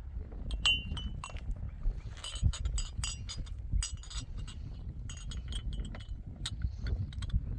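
Irregular clinking of small hard objects, metal or glass, with many quick clinks clustered about two to four seconds in and more later, over a steady low rumble.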